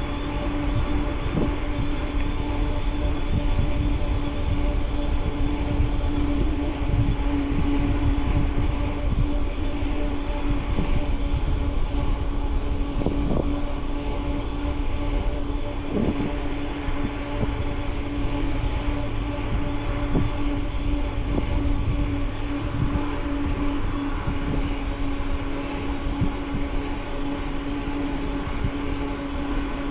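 Steady ride noise from a camera mounted on a moving e-mountain bike: a low rumble of tyres and wind on the microphone, with a constant hum and a few light knocks.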